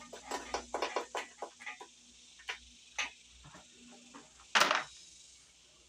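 Irregular sharp metallic clicks and taps of hand tools working on an engine's valve cover bolts, closely spaced at first and then sparser, with one louder knock about four and a half seconds in.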